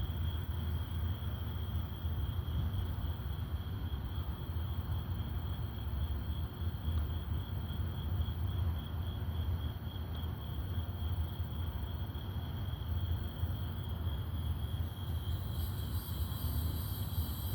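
Night insects trilling steadily: one continuous high, finely pulsed trill, joined near the end by a second, higher-pitched one, over a steady low rumble.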